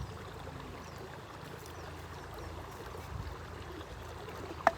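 River water flowing with a steady rushing, and a single sharp click near the end.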